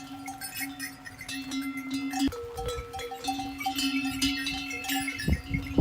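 Many small livestock bells clinking and ringing irregularly, as on a flock of sheep and goats on the move, over a steady low tone. There is a dull thump near the end.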